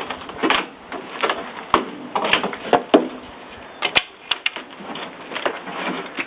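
Irregular light clicks and knocks, about a dozen spread unevenly, like small hand-tool work on wood or metal.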